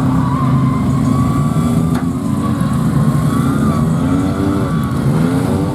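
Vehicle engine running loud and steady, then revving up and down from about four seconds in.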